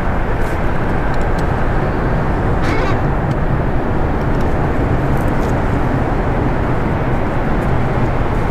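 Steady, loud rumbling noise with a faint low hum coming in a few seconds in.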